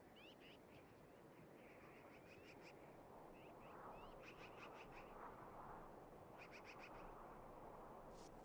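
Faint high bird chirps in quick series of about five notes, with a few short rising notes, over a soft steady background hiss.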